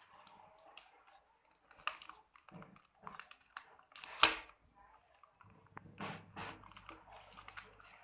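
Used plastic bottle and small parts being handled and fitted together: irregular clicks and crinkles, with one sharp click about four seconds in.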